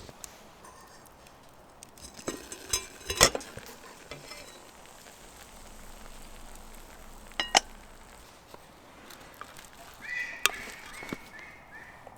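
Metal cookware clinking and knocking over a low steady hiss. There are a few sharp knocks, the loudest about three seconds in, then a ringing metal clink about halfway through and another knock near the end.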